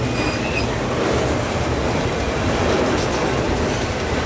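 Autorack freight cars rolling past at track level: a steady, loud noise of steel wheels running on the rails.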